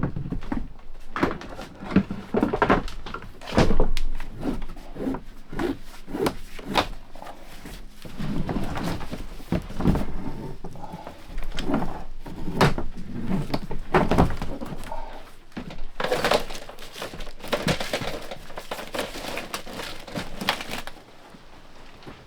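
Irregular knocks, clunks and scraping of hand demolition work inside a wooden boat's hull, as old berths, fuel lines and debris are pulled out, with longer stretches of scraping and rustling.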